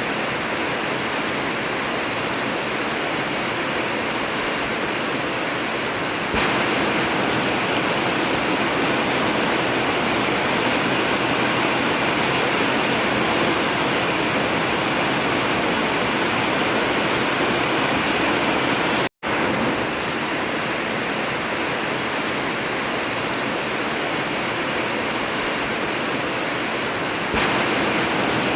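Heavy rain drumming steadily on an old zinc roof. It grows a little louder about six seconds in, and cuts out for an instant a little past the middle.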